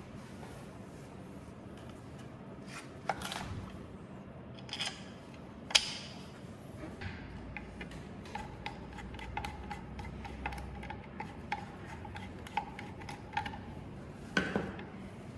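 Screws being driven into a belt sander's housing by hand: scattered small clicks and knocks of tools and parts, then a long stretch of light ticking with a faint squeak as a screw is turned.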